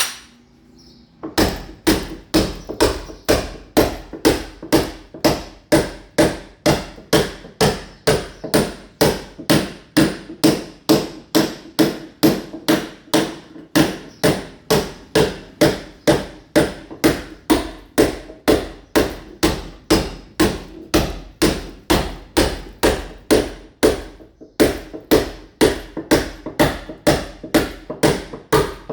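Mason's hammer (marreta) chipping a masonry wall, steady sharp blows at about three a second, starting about a second in, with a brief break near the middle and another later on.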